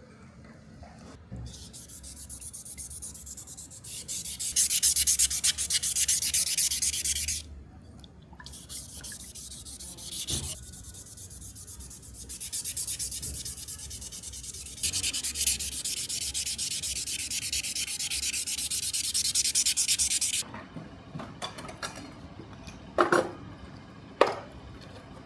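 Sandpaper rubbing in rapid strokes, in two long stretches with a short pause between, then a few light knocks near the end.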